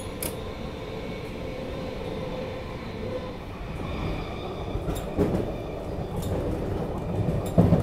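Running noise inside a Sydney Trains V set intercity carriage as it rolls along, a steady rumble of wheels on rail. Several sharp clunks from the wheels passing over rail joints and points come in the second half, the loudest near the end.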